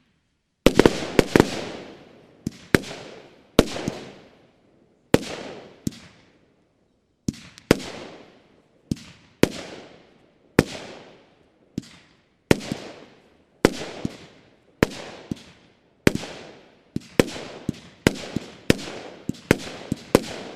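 Nordlicht 'Choreo' 25 mm firework battery (cake) firing shot after shot: a string of sharp bangs, each with a fading tail, about one or two a second and coming faster near the end.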